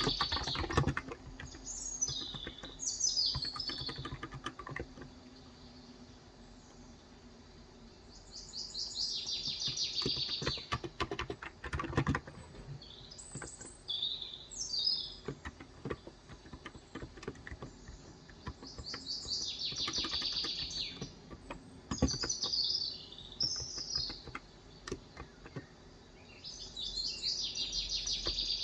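Typing on a Cox Endeavor electro-capacitive (Topre-style) 35g tenkeyless keyboard in bursts of keystrokes with short pauses. Birds sing outside in short chirping phrases repeated every few seconds.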